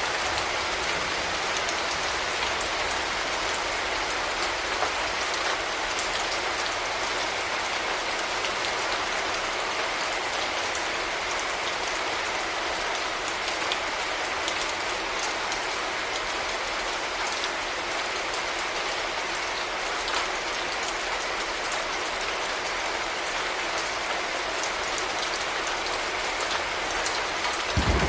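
Steady rain falling, with scattered individual drops ticking on hard surfaces. A brief low thump comes near the end.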